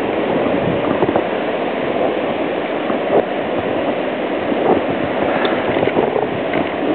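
Blizzard wind blowing hard across the microphone: a loud, continuous rush of noise with a buffeting low rumble.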